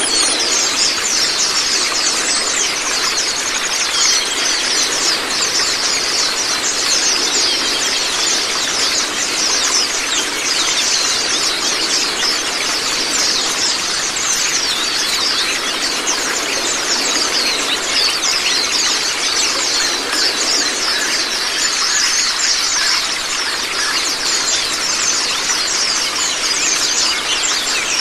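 A flock of white-eyes (Zosterops) chirping and twittering rapidly and without pause, high-pitched, over a steady rush of running water.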